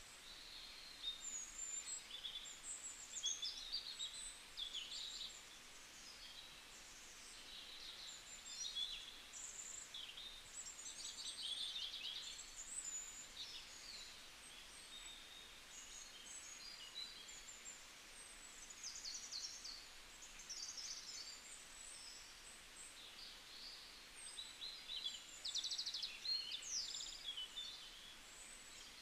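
Small birds chirping and twittering in quick, high notes and short rapid trills, coming and going, over a faint steady hiss of background noise.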